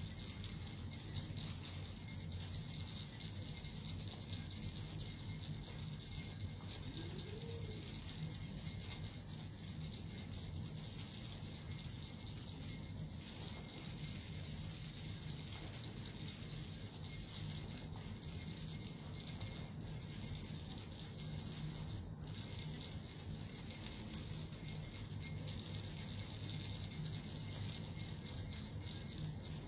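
Small jingle bells (suzu) shaken steadily and continuously, a dense bright jingling with a brief break about twenty-two seconds in.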